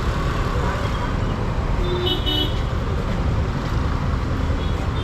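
Wind and road noise on a moving motorcycle's microphone, with a vehicle horn tooting twice in quick succession about two seconds in.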